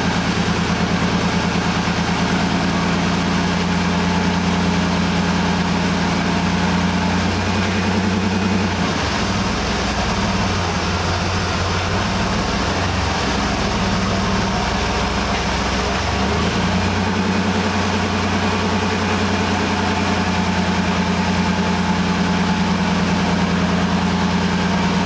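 1992 GMC Sonoma's 4.3-litre V6 engine idling steadily, with its note wavering unevenly for several seconds in the middle before settling back. The owner says it starts and runs nice, with compression of 165 to 175 psi across the cylinders.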